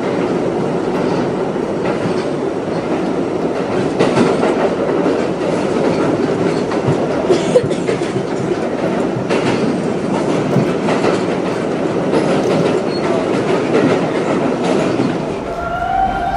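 New York City subway train running along the track, heard from aboard: a steady, loud rumble with irregular clicks of the wheels over rail joints.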